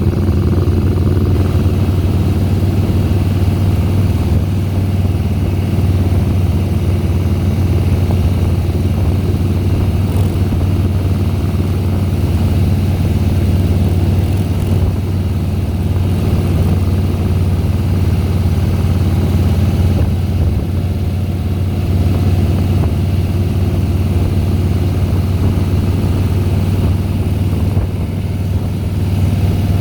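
2010 Harley-Davidson Softail Deluxe's Twin Cam 96B V-twin engine running steadily under way, with a brief drop in level near the end.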